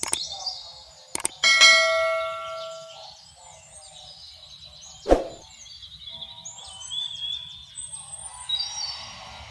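Sharp clicks, then a metallic ring that fades out over about a second and a half, with birds chirping in the background.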